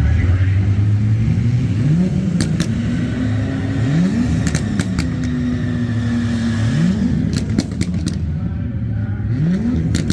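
Car engine revving, four times, each rev climbing, holding and dropping back, over the steady low rumble of engines, with scattered sharp cracks.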